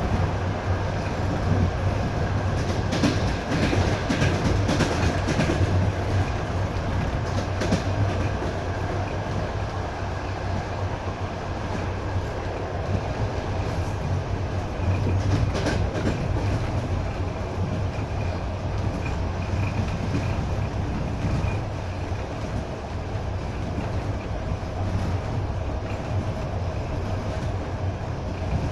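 Passenger train running along the track, heard from inside a carriage at an open window: a steady rumble of wheels on rails. Clacks of the wheels over rail joints come in clusters a few seconds in and again around the middle.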